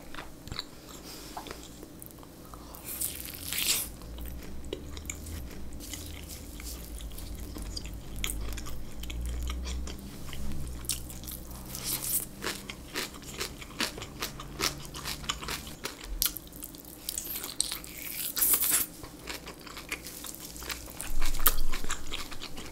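Close-miked chewing and biting of boiled pork belly: a steady run of short wet mouth clicks, with louder bites about three seconds in and again near eighteen seconds.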